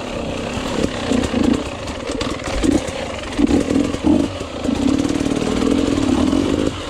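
Enduro motorcycle engine revving in short bursts as the throttle is worked on and off, then held steadier for about two seconds near the end.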